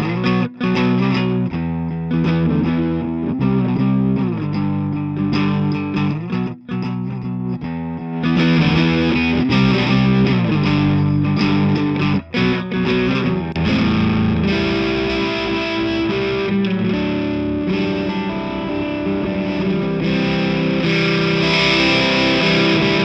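Electric guitar played through a Greer Lightspeed Organic Overdrive pedal into a Marshall JCM800 combo: chords with a light to mild amount of overdrive, broken by short stops, and brighter and fuller from about eight seconds in.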